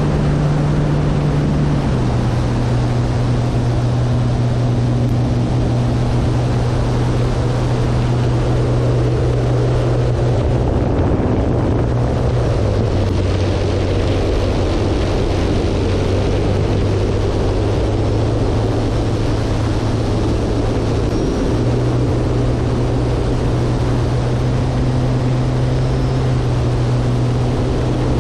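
Electric motor and propeller of a 188-inch-span RC airplane (Hacker A100-10 motor) droning in flight, with wind rushing over the wing-mounted microphone. The drone's pitch steps down about two seconds in and again around the middle, then rises a few seconds before the end.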